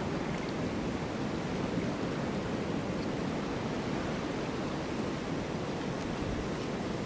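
Snowstorm wind blowing steadily: an even, low rushing noise with no gusts or breaks.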